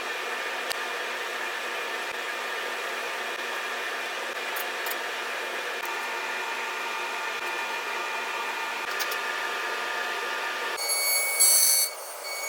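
A power tool's motor running steadily with an even whine. It changes abruptly near the end to sharper, higher tones and a louder burst.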